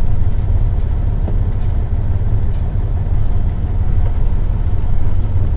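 Semi truck's diesel engine running steadily with a deep, even rumble.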